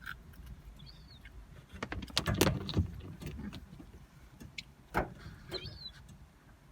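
Knocks and rustling inside a car for about a second, starting around two seconds in, and a sharp click near five seconds, as food is handed out to seagulls. Short faint gull calls sound about a second in and again near the end.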